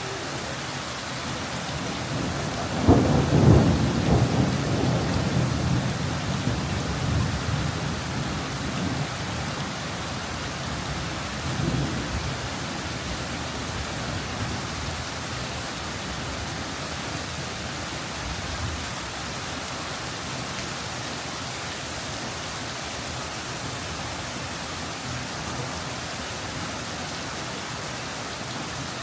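Thunderstorm with a steady, heavy downpour; a loud thunderclap about three seconds in rumbles on for several seconds, and a fainter rumble of thunder follows later.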